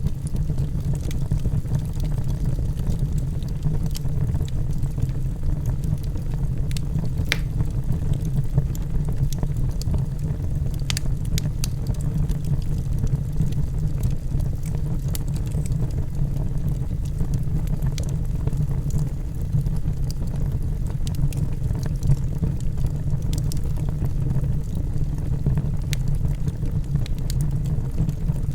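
Log fire burning in a fireplace: a steady low rumble of the flames with scattered sharp crackles and pops from the logs.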